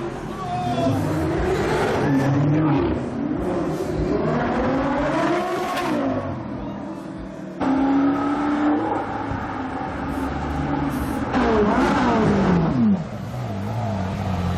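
Supercar engines revving and accelerating, the pitch climbing and falling with each blip of the throttle. There are abrupt changes about halfway through and again near the end, and one engine's pitch drops steeply just before the second change.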